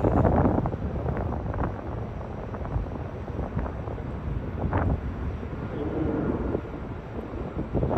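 Wind buffeting the microphone outdoors: an uneven low rumble with a few brief louder gusts.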